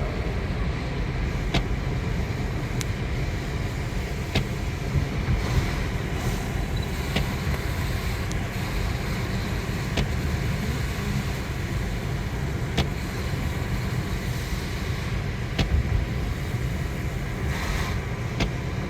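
Steady road and engine rumble heard from inside a moving car, with occasional sharp ticks at irregular intervals.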